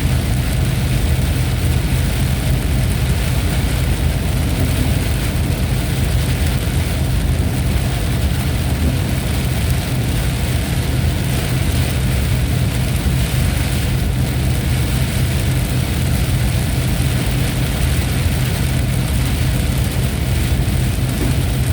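Steady rain with a constant low rumble underneath, unchanging throughout, with no distinct thunderclap.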